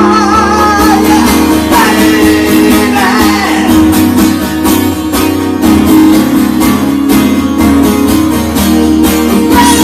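Live acoustic guitar music in an instrumental passage of a song: strummed chords under a lead line whose notes waver and bend.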